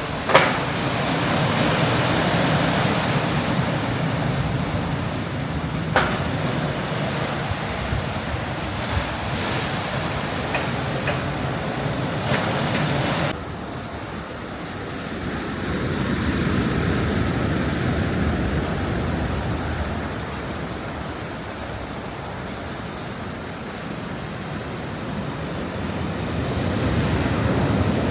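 Sea waves washing onto a shore, a steady rushing that swells and fades in slow surges. A sharp knock comes just after the start and another about six seconds in, and the sound changes abruptly about thirteen seconds in.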